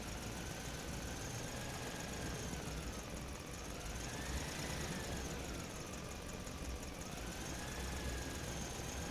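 A motor runs steadily with a whine that slowly rises and falls in pitch over a low rumble.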